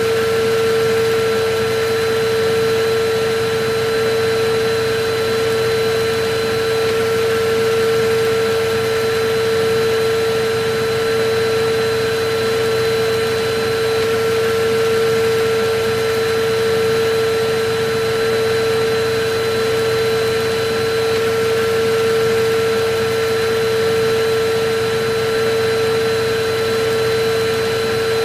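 Electric vacuum cleaner running steadily: a constant motor whine over rushing air, the level swelling slightly about every two seconds.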